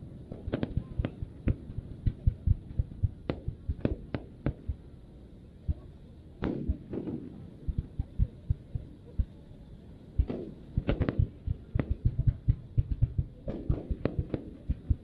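Fireworks going off in a rapid, irregular string of sharp bangs, with a few longer, deeper bursts in between.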